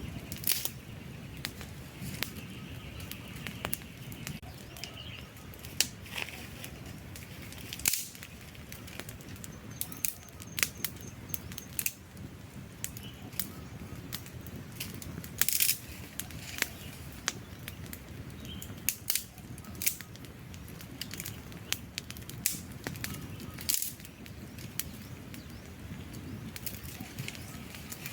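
Campfire of burning logs crackling: irregular sharp pops and snaps, a few much louder than the rest, over a steady low rumble of the flames. Faint high chirps are heard now and then.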